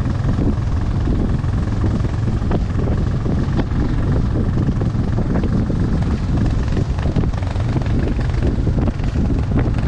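A motor vehicle engine running at a steady speed with a deep, even hum, scattered knocks and rattles over it, and wind on the microphone.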